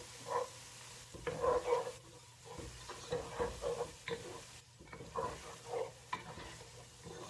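A utensil stirring and scraping in a pot in short, irregular strokes, with a faint sizzle from spices and freshly added ginger-garlic paste frying in a little water.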